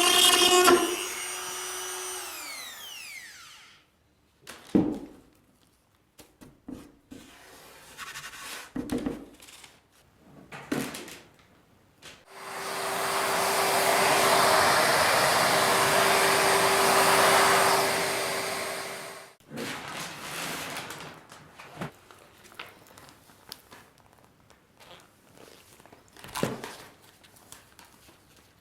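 A workshop power tool's motor winding down, falling in pitch over the first few seconds, then scattered knocks and clatter of parts being handled. About twelve seconds in, a powered tool runs for about seven seconds with a steady rushing noise and hum, then cuts off, followed by a few more knocks.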